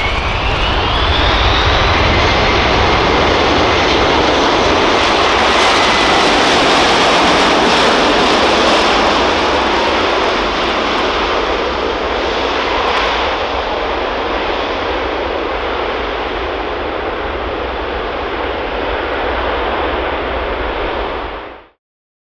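Boeing E-4B's four General Electric CF6 turbofan engines running loud, with a whine that rises in pitch at first as the engines spool up, then a steady jet roar that slowly eases and cuts off suddenly near the end.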